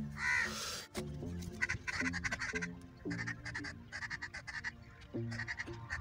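Birds calling repeatedly, with background music underneath.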